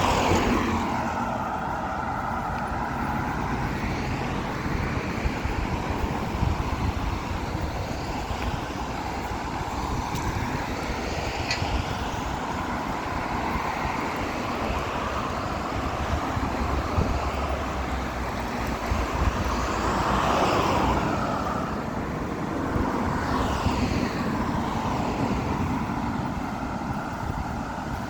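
Road traffic: cars driving past one after another over a steady hum of traffic, the loudest passes right at the start and about twenty seconds in.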